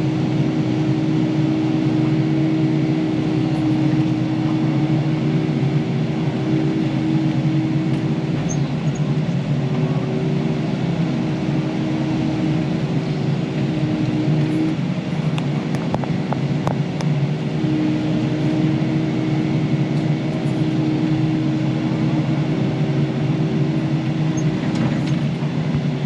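Kubota KX080 excavator's diesel engine running steadily under hydraulic load while digging, its note shifting in pitch a few times as the hydraulics work. A few faint clinks come through about halfway in.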